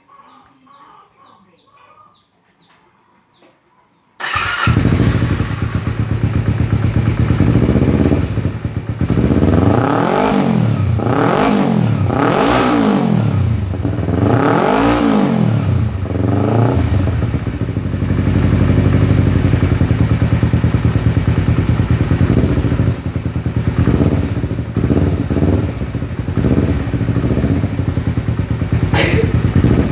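Motorcycle fitted with an aftermarket Yoshimura Thailand exhaust starting abruptly about four seconds in, then revving: a series of throttle blips, each rising and falling, then held revs and more short blips near the end.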